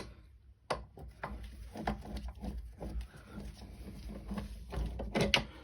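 Scattered light clicks and taps of a screwdriver and loose screws being worked out of the plastic pull-start housing of a two-stroke petrol strimmer.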